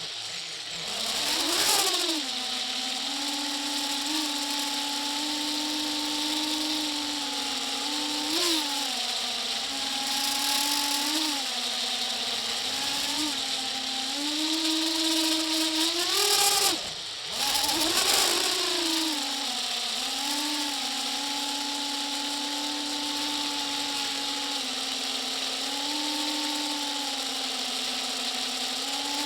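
A motor running steadily, its pitch dipping and recovering now and then, with a brief drop and slow climb back about halfway through. A steady hiss runs over it.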